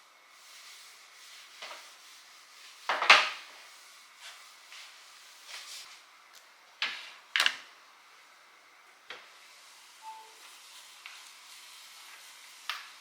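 Household objects being handled: a handful of sharp knocks and clacks, the loudest about three seconds in and two close together a little past the middle, with a short faint beep near ten seconds.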